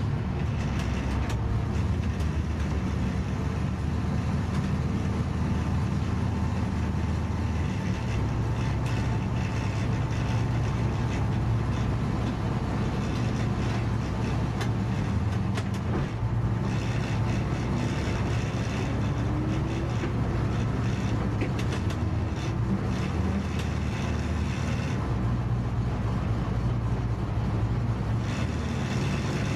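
Ford 351 Windsor V8 with a full exhaust system, idling steadily. Its pitch rises briefly a couple of times past the middle and again at the end.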